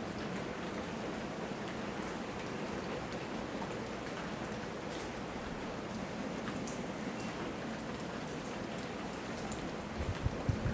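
Steady tropical rain falling, with scattered drip ticks. A few low thumps come about ten seconds in.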